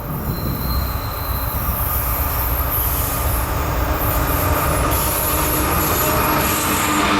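A train rolling by: a steady low rumble of cars on the rails, with thin high-pitched wheel squeal coming in from about three seconds in.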